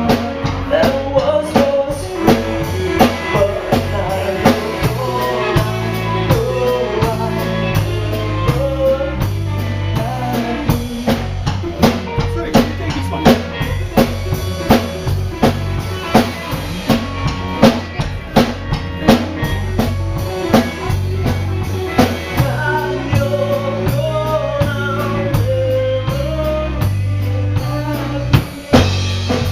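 A band playing live: a drum kit keeping a busy rhythm over a stepping bass line, with a melody line above.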